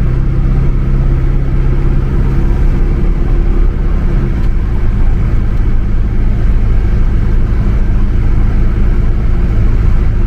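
Car engine running steadily with a low drone; its tone shifts about four seconds in and then holds even.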